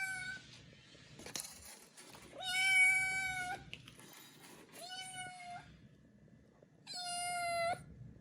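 A cat meowing: the end of one meow at the start, then three long, steady-pitched meows of about a second each. The loudest and longest comes a little past two seconds in.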